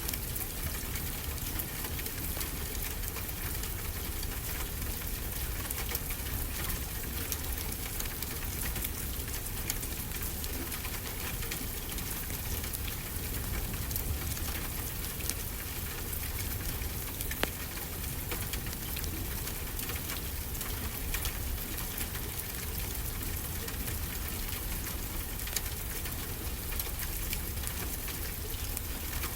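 Fireplace crackling, with scattered sharp pops and one louder pop a little past halfway, over a steady wash of ocean surf with a low rumble.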